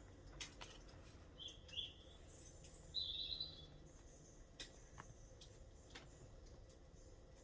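Songbirds chirping: a few short high calls, the loudest about three seconds in. A few faint sharp clicks are scattered through.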